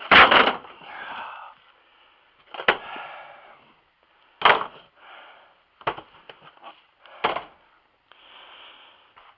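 Wooden beehive equipment being shifted and knocked together while rummaging through a stack: five sharp wooden knocks at uneven intervals, the first the loudest, with scraping and sliding in between.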